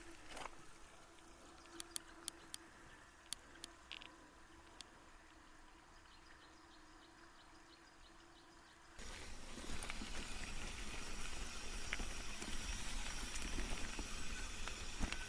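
A mountain bike on a trail: at first quiet, with a few sharp clicks and then a faint, evenly spaced ticking. About nine seconds in, the sound jumps abruptly to a loud, steady rushing of riding: tyres rolling on the dirt trail and wind on the helmet camera.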